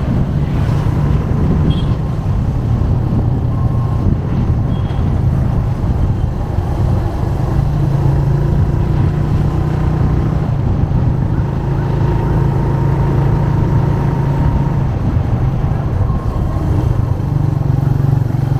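Motorcycle engine running steadily under the rider, a continuous low hum whose pitch shifts a little now and then with the throttle.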